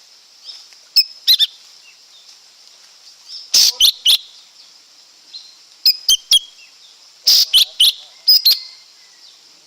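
Lesser green leafbird calling: short, sharp, high notes that sweep in pitch, in clusters of two or three every second or two, over a steady high hiss.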